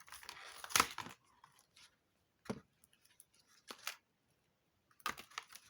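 Small packaging being handled: a short rustle of plastic or paper with a sharp click about a second in, then a few scattered light clicks and snips as a pair of earrings is unpacked from an advent-calendar compartment.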